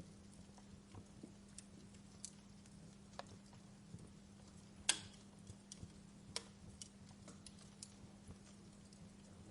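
Wood fire crackling in a fireplace: faint, irregular pops and snaps, the loudest about halfway through and another a second or so later, over a faint steady low hum.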